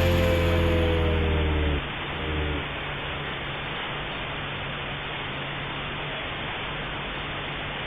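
The tail of a song fades out in the first two seconds, leaving a steady, even rush of wind and water noise from sailing in high winds.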